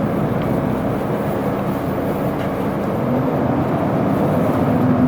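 Isuzu Erga city bus heard from inside the cabin while driving: the diesel engine runs steadily over road noise, and its note rises slightly in the last couple of seconds as it picks up speed.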